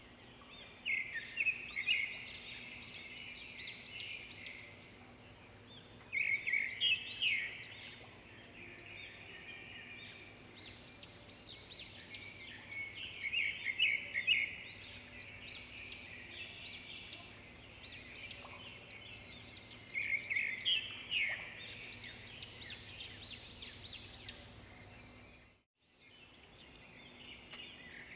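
Songbird song: phrases of rapid, high chirping notes repeated about every six to seven seconds, with softer scattered notes between them. Near the end the sound drops out completely for a moment.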